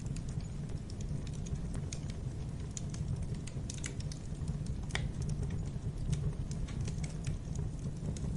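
Wood fire burning in a fireplace: a steady low rumble of the flames with irregular crackles and pops, one sharper pop about five seconds in.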